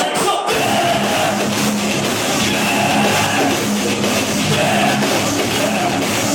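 Live heavy metal band playing loud, with distorted guitars and drums.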